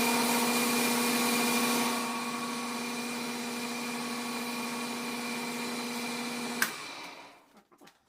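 Small electric motor running steadily with a hum and an even hiss of sandpaper on the spinning alternator rotor's slip rings, heavier for the first two seconds. It is switched off with a click near the end and winds down to a stop.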